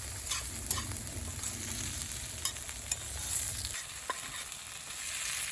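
Food sizzling over a wood campfire: a steady high hiss with scattered sharp crackles and pops. A low rumble beneath it drops away a little after halfway.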